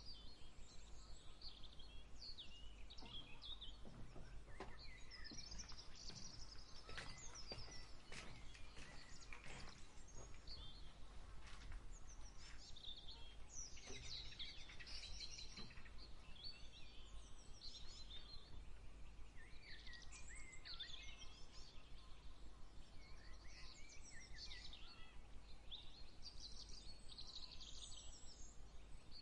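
Birds chirping and singing in a steady dawn chorus of many short, high calls over a faint low rumble. A run of soft clicks or taps comes and goes in the first half.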